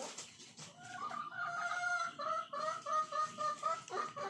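A chicken calling: one held note starting about a second in, then a quick run of repeated notes at about four a second.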